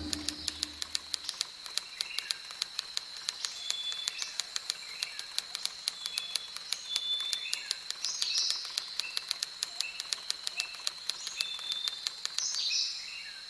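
Outdoor nature ambience: birds giving short chirps over a steady high-pitched whine and a rapid, even ticking.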